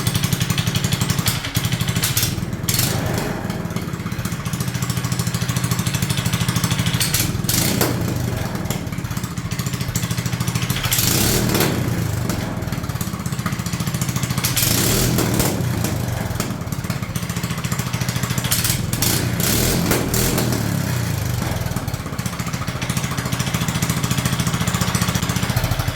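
Kohler 6.5 hp single-cylinder engine with a budget stage 1 kit, running with no load because the drive belt is off. It idles steadily and is revved up several times.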